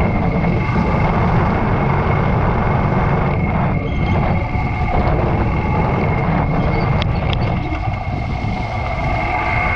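Yamaha YBR125's single-cylinder engine running steadily while the motorcycle is ridden, with a dense low rumble of engine and road noise. Two sharp clicks come about seven seconds in.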